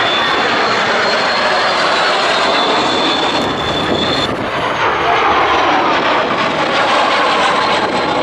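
MiG-15 jet's centrifugal-flow turbojet flying past: a loud, steady jet roar with a high whistle that cuts off about four seconds in, after which a lower tone slides slowly down in pitch as the aircraft passes.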